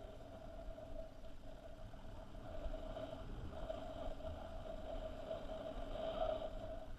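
Motorcycle engine running at a steady speed, a constant hum over a low rumble.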